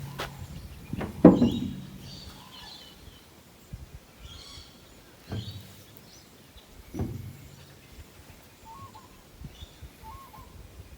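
Heavy metal clunks a few seconds apart, the loudest about a second in, each ringing briefly, as steel dozer parts are handled or struck. Birds chirp in the background, and a short call repeats about once a second near the end.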